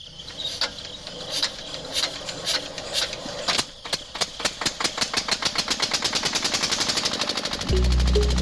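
Rapid mechanical clicking, sparse at first and speeding up into a steady fast ticking. Music begins near the end.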